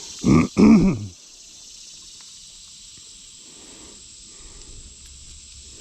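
Steady high-pitched drone of insects, with some faint handling rustle later on.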